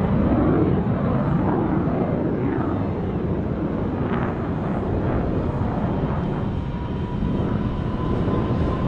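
F-22 Raptor's twin afterburning turbofan jet engines, a loud continuous jet noise with sweeping, wavering shifts in pitch as the fighter moves across the sky.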